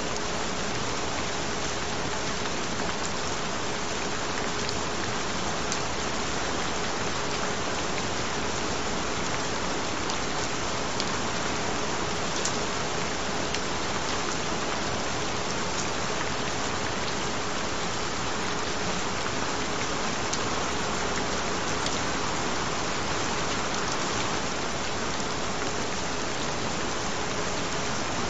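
Steady rain falling, an even hiss with no break or swell, with a faint steady tone held underneath.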